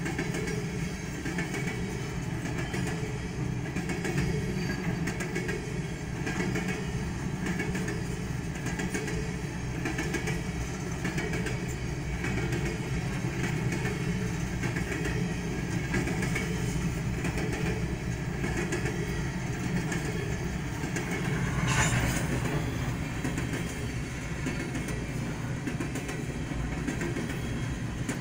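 BNSF coal train's hopper cars rolling past: a steady rumble with a rhythmic clickety-clack of wheels over the rail joints. A brief, sharper burst about three-quarters of the way through.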